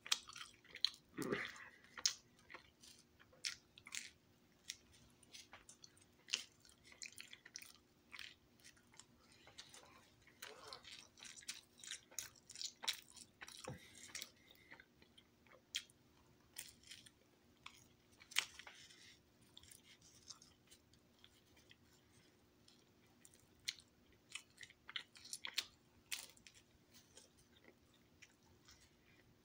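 A person chewing and biting pizza close to the microphone: irregular short clicky mouth sounds, busiest in the first half and thinning out toward the end. A faint steady hum lies underneath.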